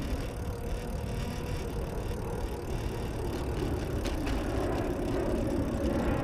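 Wind buffeting the microphone of a camera on a moving bicycle, with road noise and a few light clicks from the bike.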